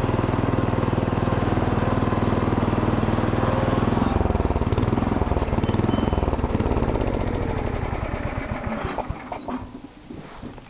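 Massey Ferguson garden tractor engine running steadily while pulling a two-bottom plow. Its pitch shifts and wavers about four seconds in, then it dies away about nine seconds in, leaving a few faint knocks.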